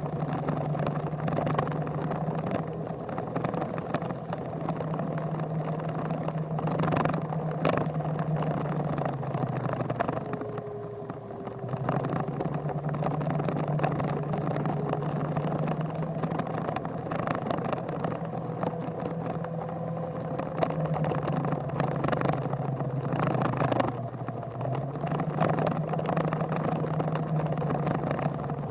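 Vehicle engine running steadily. Its pitch drops and picks up again about ten seconds in and again near the end.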